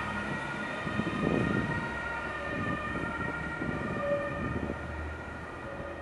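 Electric regional train pulling away from a station, its traction drive giving several steady high whining tones that fade as it recedes, with uneven rumbling loudest about a second in.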